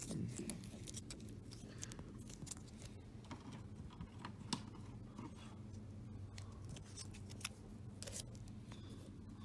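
Thick paper being folded, creased and pressed into a small wad by hand: faint scattered rustles and sharp little clicks over a faint steady low hum.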